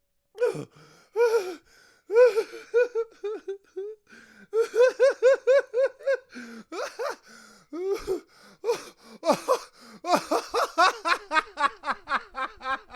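A man laughing hard in bursts of rapid, rhythmic "ha-ha" pulses, broken by sharp gasps for breath, speeding up in the last few seconds.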